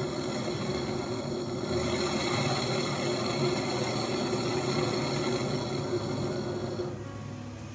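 A small machine running steadily with a steady hum and high whine; it grows louder about two seconds in and drops away near the end.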